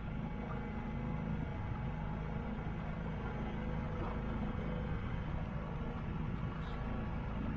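Boat engine running steadily, a low even drone as the motorboat cruises across the lake.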